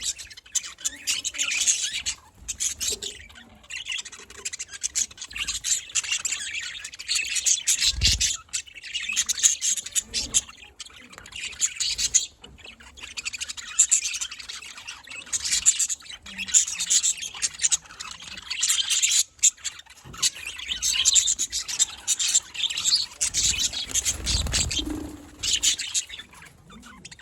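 Budgerigars chirping and warbling in quick, busy bouts that break off every few seconds and start again.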